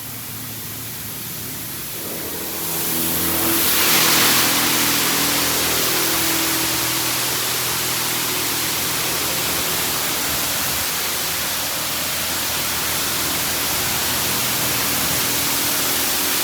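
Washworld Razor touchless car wash spraying pre-soak cleaning solution onto the car, heard from inside the cabin as a loud steady hiss. The spray comes on strongly about three seconds in. A steady machine hum runs underneath.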